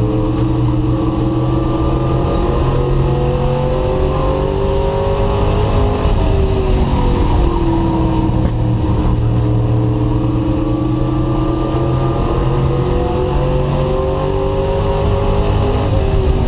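Race truck engine heard from onboard, running hard. Its pitch climbs gradually, drops back about six seconds in, then climbs again and drops near the end: the revs rising down the straights and falling off as the driver lifts for the turns.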